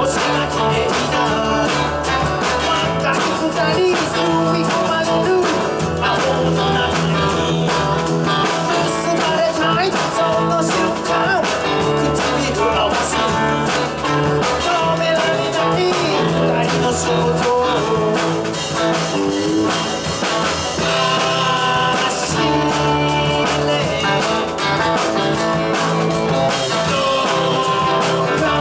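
Rock-and-roll band playing a song, with electric guitar, a steady drum beat and singing.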